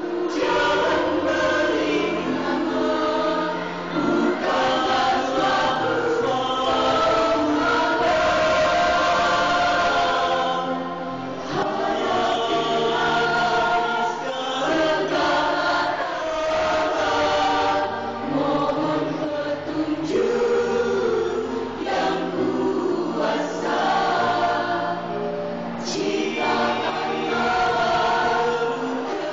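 Mixed choir of women and men singing together.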